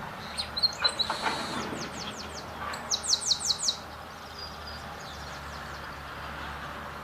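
Songbirds singing: sharp chirps and a short high whistle in the first second and a half, then a quick run of about five high, falling notes about three seconds in, over a steady low background hum.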